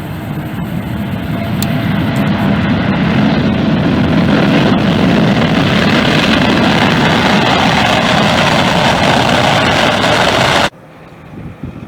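Jet airliner's engine roar swelling over the first few seconds, holding steady and loud, then cutting off abruptly near the end.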